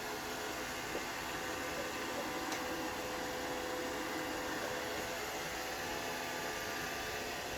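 Roomba robot vacuum running, a steady whirring hum of its vacuum motor and brushes with a few fixed motor tones in it. A faint click about two and a half seconds in.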